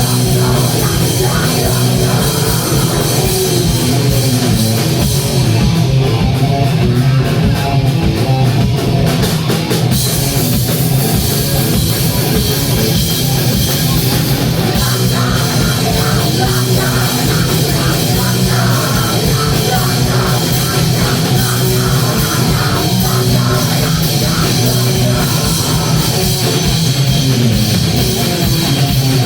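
Live heavy rock band playing loud: distorted electric guitar, bass and drum kit. The cymbals drop away for a few seconds about six seconds in, then come back with a crash.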